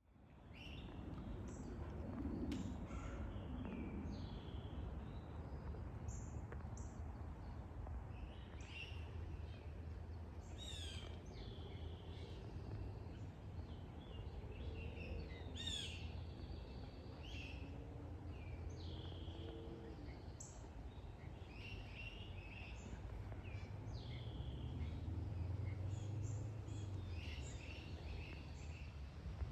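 Several birds chirping and calling in short, scattered notes, over a steady low background rumble.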